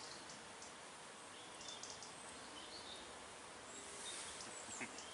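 A few faint, short strokes of a knife blade shaving a wooden stick to a point, over a steady background hiss.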